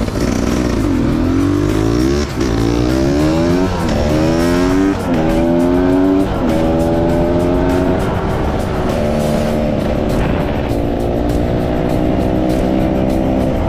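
Enduro motorcycle engine accelerating up through the gears, its pitch rising and dropping back at each of about four shifts, then settling to a steady cruise.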